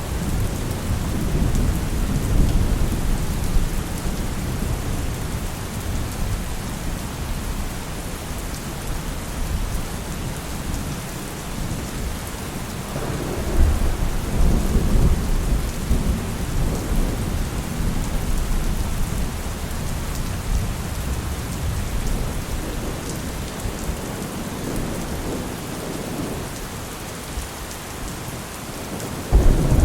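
Heavy rain falling steadily under continuous rolling thunder, with the low rumble swelling about a third of the way in and again just at the end.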